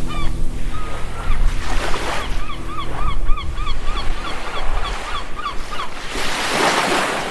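Sea waves washing on a shore, with a bird giving a quick run of short calls, about three a second, through the middle; a wave surges louder near the end.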